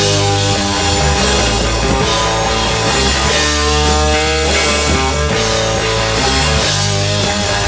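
Rock band playing live, led by guitar, with held chords over a steady bass line.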